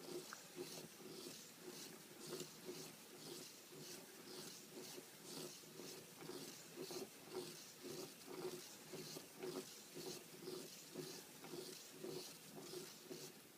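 Flapping-wing model mechanism with an added planar linkage for the lower wing, cycling through its strokes. It makes a faint, even sound that repeats about two and a half times a second.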